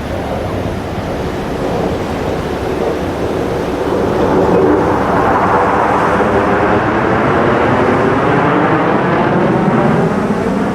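Jet roar from a USAF Thunderbirds F-16 Fighting Falcon flying past, swelling about halfway through and holding loud, with the wavering, sweeping tone of a jet passing close by.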